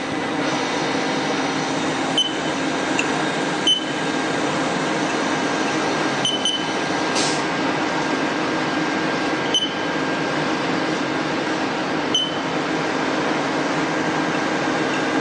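Steady machinery hum with several held tones, like fans or a powered machine running, broken by a few faint light clicks about two to three seconds apart.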